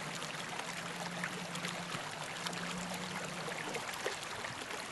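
Running water trickling and splashing steadily, with many small drips and splashes, under a faint low hum.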